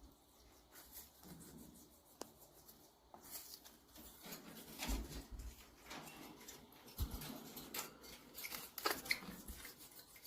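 A parrot's beak biting and chewing a piece of sweet potato: faint, irregular small clicks, crunches and scrapes, growing busier from about three seconds in.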